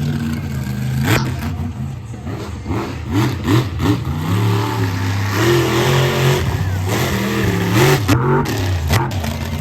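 Monster truck engine revving hard, its pitch rising and falling again and again, with several sharp bangs and knocks over it.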